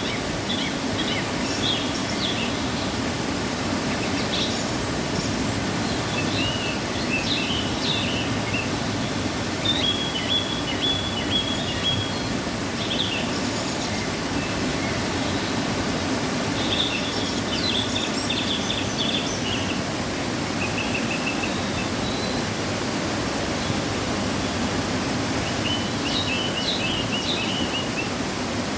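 Waterfall rushing steadily after rain, a constant deep wash of falling water. Small birds chirp in short high runs over it, on and off throughout.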